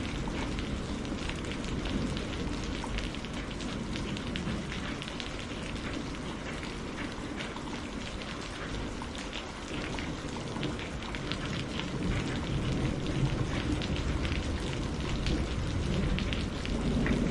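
Steady rain falling, with many separate drops ticking on a surface. A low rumble runs underneath and swells near the end.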